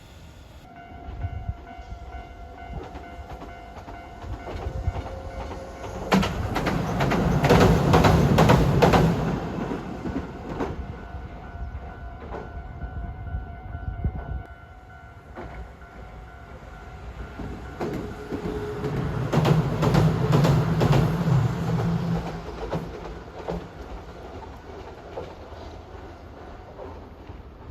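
Train passing, its wheels clacking over rail joints. The sound swells twice, loudest about six and again about nineteen seconds in, over a faint steady whine.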